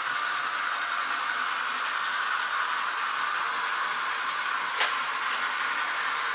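H0-scale model trains running on the layout: a steady whir and rattle of small locomotive motors and wheels on the rails, with one sharp click about five seconds in.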